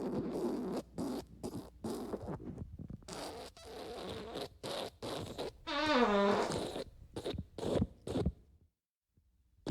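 Fart sound effects: a quick string of short farts, with one longer squeaky fart about six seconds in whose pitch wobbles and falls. They stop about a second before the end.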